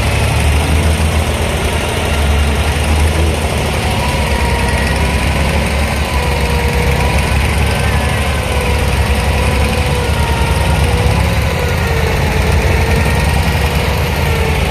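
Abra water taxi's diesel engine running steadily, a loud, even low rumble heard from on board the boat.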